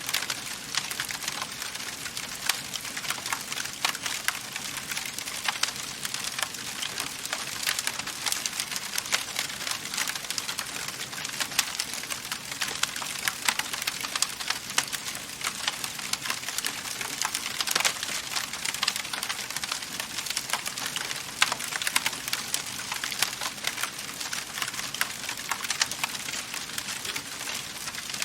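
Wood fire burning in a fireplace, crackling steadily with dense small snaps and occasional louder pops over a soft hiss.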